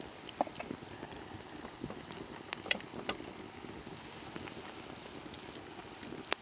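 Open wood fire crackling: irregular sharp pops and snaps over a steady low hiss, the loudest pop near the end.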